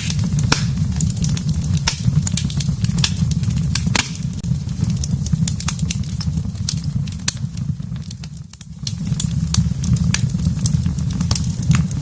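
Wood fire burning in a fireplace: frequent sharp crackles and pops over a steady low rumble of flame. The rumble dips briefly about two-thirds of the way through.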